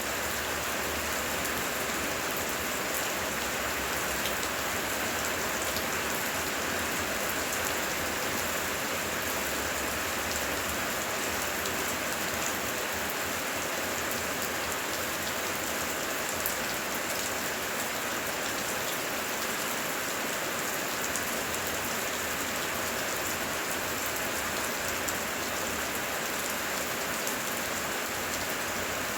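Heavy rain falling steadily: an even hiss of rain on the ground and foliage, with a few sharper drop impacts standing out.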